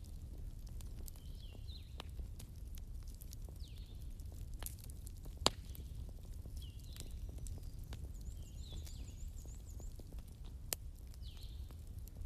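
Fireplace fire crackling over a steady low rumble, with scattered pops and one sharper pop about five and a half seconds in. Short high chirps that fall in pitch repeat every second or two.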